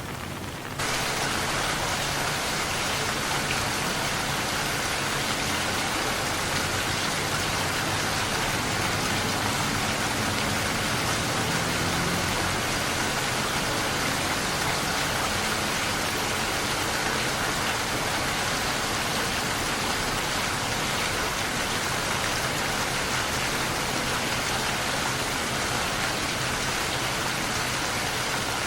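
Steady rain falling and pattering on surfaces, a dense even hiss. About a second in it steps up suddenly to a louder level and then stays constant.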